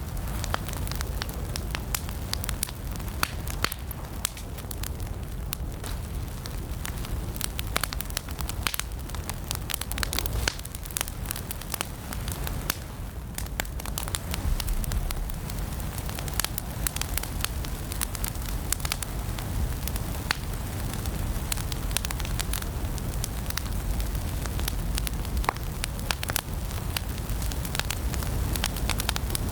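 Fire crackling in a fireplace: a dense, irregular run of sharp pops and snaps over a steady low rumble of burning.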